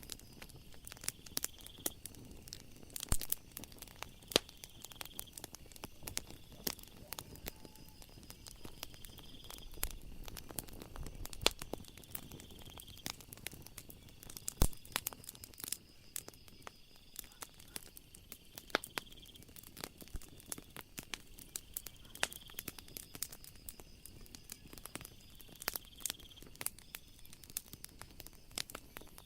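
Wood fire crackling: irregular sharp snaps and pops, several a second, with a few louder pops. Behind it runs a steady high-pitched chirring of night insects.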